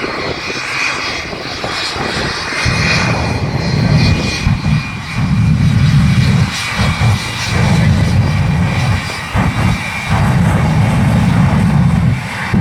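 Aircraft engine droning over an airfield. A heavy low rumble swells and drops away every second or two from a few seconds in.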